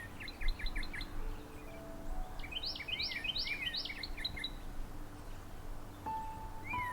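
Songbirds singing: a run of quick chirps, then a repeated phrase of rising notes a couple of seconds in, over a steady low background hiss with soft held tones underneath.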